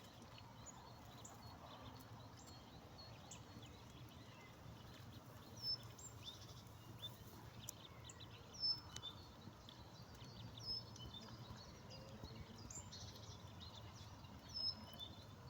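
Faint outdoor ambience with many short, high bird chirps scattered throughout, a few a little louder.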